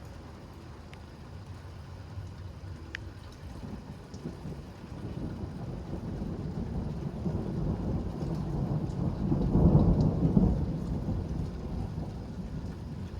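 Thunder rumbling over steady rain, building slowly to its loudest about ten seconds in and then easing off.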